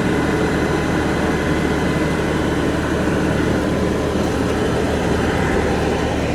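Diesel engine of an LS tractor running steadily.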